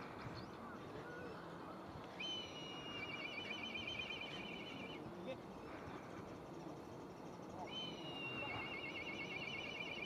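Two long bird songs, each a short gliding note that runs into a rapid, even trill lasting about three seconds. The first starts about two seconds in and the second near the end. Under them is the steady rush of falling water.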